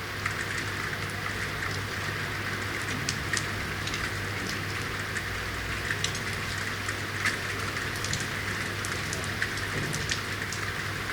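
Steady rain falling on a city street, a dense hiss with many individual drops ticking sharply on hard surfaces, over a low steady hum.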